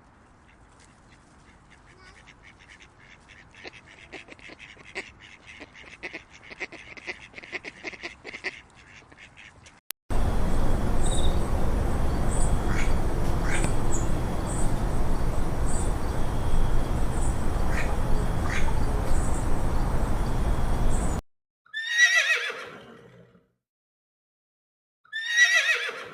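Animal sounds cut together: about ten seconds of faint clicking and chatter, then a loud noisy stretch with short calls repeating every second or so, and near the end two horse whinnies, each falling in pitch.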